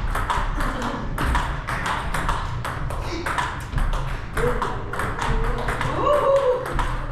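Table tennis balls clicking off paddles and tables in quick, overlapping rallies, several hits a second, from basic-stroke drills at more than one table.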